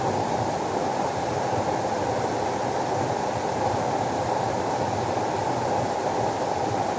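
Water rushing steadily: a constant, deep, even rush with no breaks or surges.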